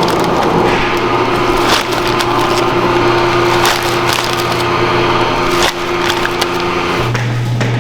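Steady machine hum with scattered sharp clicks and knocks over it; the hum shifts in pitch near the end.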